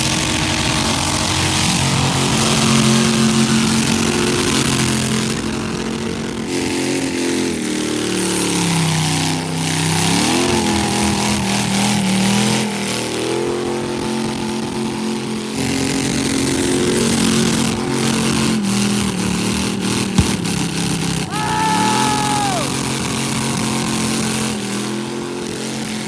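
A car engine held at high revs during a burnout attempt to pop the rear tires, its pitch sagging about a third of the way through and climbing back, over a steady hiss of spinning tires. A short falling whistle-like tone comes about 22 s in.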